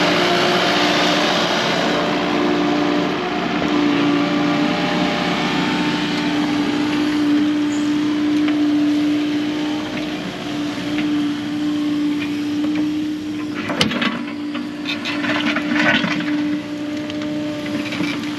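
Excavator engine running steadily while digging a trench, with a few sharp metallic clanks near the end.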